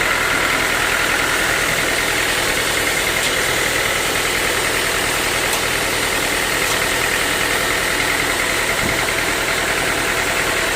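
Sawmill machinery running steadily: a continuous engine-like drone with a steady high whine.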